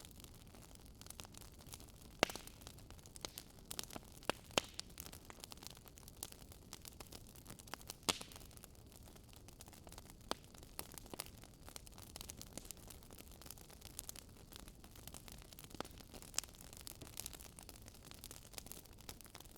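Fire crackling: irregular sharp pops and snaps over a soft, steady hiss.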